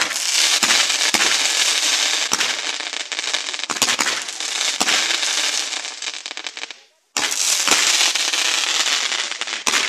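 Pyrotechnic ground fountains spraying sparks with a loud, dense hiss and crackle, broken by several sharp pops. The sound dies away about seven seconds in, then starts again abruptly a moment later.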